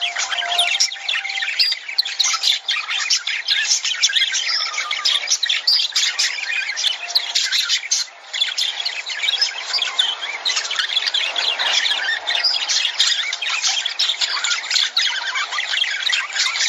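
A flock of lovebirds chattering, with many rapid, overlapping chirps and harsh squawks, dipping briefly about eight seconds in.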